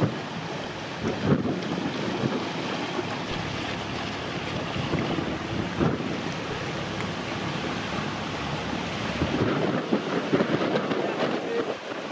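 Strong wind buffeting the microphone in uneven gusts, a loud rushing rumble.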